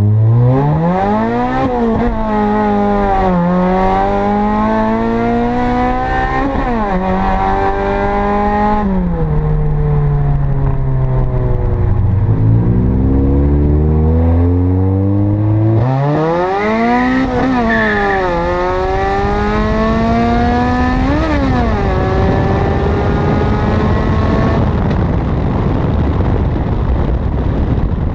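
Honda Integra's B20 VTEC four-cylinder engine pulling hard through the gears, twice: each time the engine note climbs steeply and drops back at every upshift. Between the two runs it eases off and the note falls. Near the end the engine fades under wind noise.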